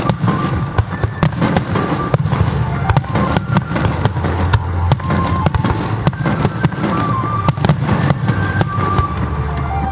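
Aerial fireworks display: a rapid run of shell bursts and crackles over a continuous deep rumble of booms.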